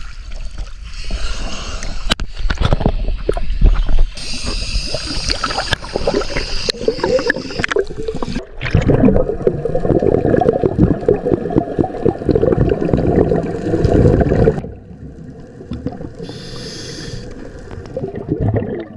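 Scuba diver breathing through a regulator underwater: hissing inhalations and gurgling exhaled bubbles, with a long burst of bubbles around the middle.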